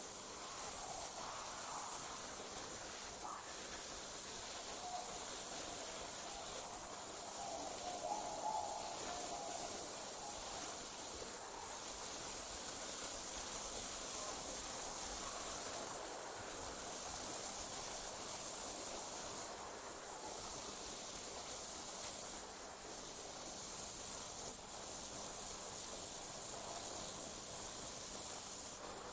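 Crickets chirring at night in one steady, high-pitched trill that breaks off briefly every few seconds. A faint lower call sounds during the first third.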